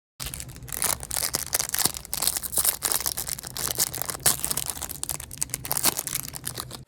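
Meat grinder grinding bubble gum: dense, irregular crackling and crunching with many sharp clicks, over a steady low motor hum.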